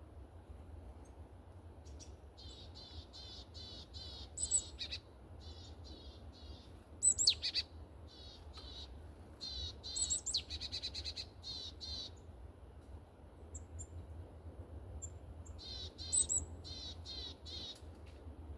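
Small songbirds at a feeder calling, several runs of short, high, quickly repeated notes with a fast trill about ten seconds in. A steady low hum lies underneath.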